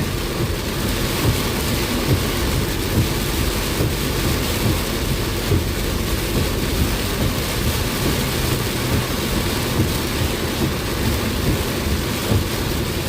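Heavy rain pelting a car as it is driven through a downpour: a dense, steady hiss with many irregular low thuds.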